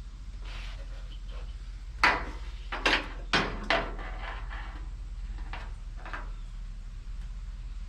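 A few sharp knocks and clanks, four loud ones close together about two seconds in and two fainter ones a little later, over a steady low hum.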